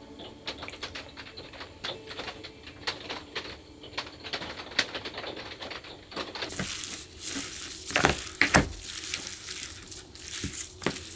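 Scattered light taps and clicks. About six and a half seconds in, a steady hiss joins them, with two louder knocks shortly after.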